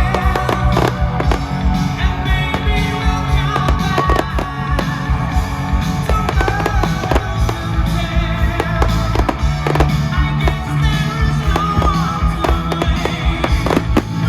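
Fireworks bursting over loud rock music, many sharp bangs and crackles scattered through a steady musical backing.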